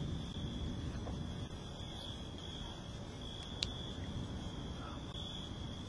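Crickets chirping in a steady high trill over low background noise, with a single short click about three and a half seconds in.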